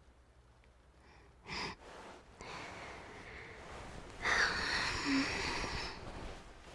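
Close-miked breathing from a woman: a short breath about a second and a half in, then a longer, louder breathy exhale like a sigh, with a brief hum near the end.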